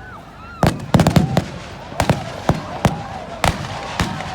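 Fireworks and firecrackers going off: a rapid cluster of sharp bangs about a second in, then single bangs every half second or so.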